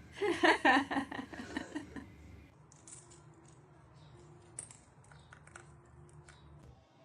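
A quick run of high-pitched vocal sounds lasting about two seconds, then scattered light clicks and taps.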